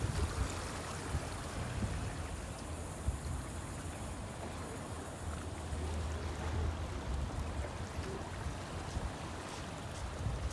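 Outdoor waterside ambience: wind buffeting the microphone with a low, uneven rumble over the wash of river water.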